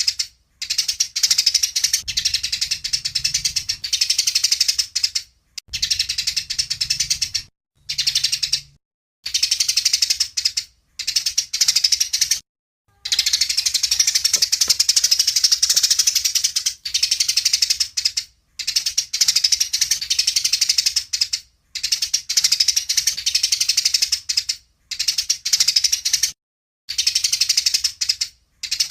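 A songbird singing rapid, high-pitched chattering phrases in runs of one to four seconds, broken by sudden silent gaps. This is a birdsong tutoring recording of the kind played to train competition songbirds.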